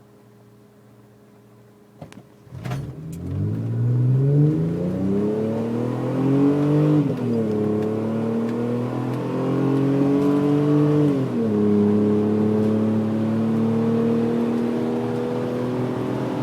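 Mercedes Sprinter petrol V6 with a stainless steel exhaust, starting a little over two seconds in after a couple of clicks. Its note climbs in pitch for several seconds and drops back sharply, rises again and drops sharply a second time, then holds steady with a slow rise.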